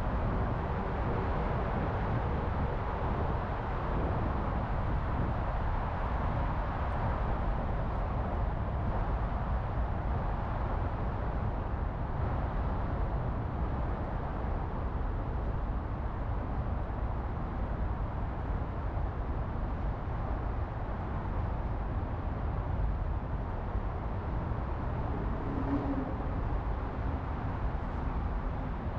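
Austin Healey's 215 cubic-inch aluminum Oldsmobile V8 idling steadily, with no revving.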